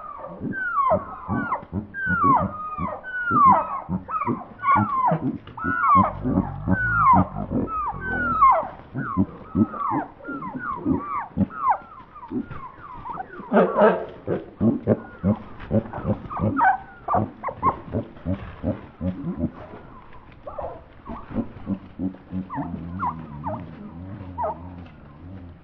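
A flock of chickens squawking in a dense run of overlapping calls that fall in pitch, thinning out toward the end: the birds are agitated, wanting to be let out of their coop.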